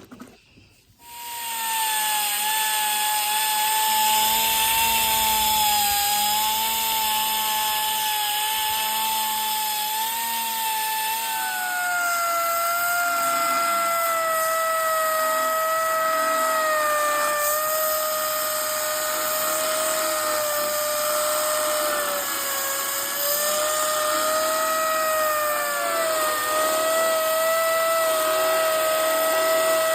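Electric drill running continuously, drilling out the spot welds that hold a car's steel front wing. Its whine starts about a second in and drops in pitch about 11 seconds in, staying lower after that.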